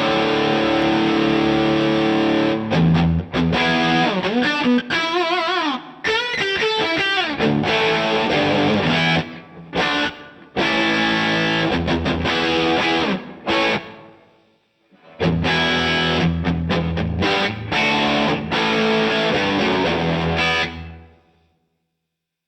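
Electric guitar played through a DVII amp on a distorted setting: held chords, then a run of bent, wavering lead notes, more chords after a short break, and the last chord dying away near the end.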